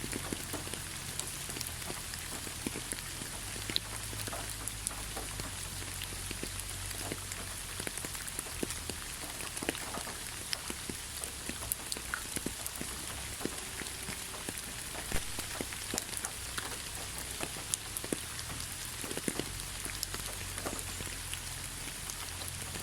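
Steady rain, an even hiss scattered with individual drops ticking sharply on a surface.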